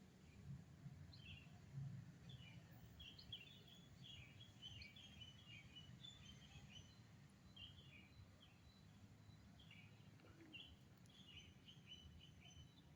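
Small birds chirping faintly in short, repeated calls over a steady low background rumble.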